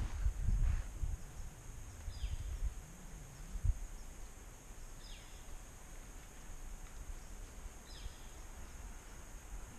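A bird gives three short calls, each a quick falling note, about three seconds apart, over quiet outdoor background. A low rumble runs through the first few seconds.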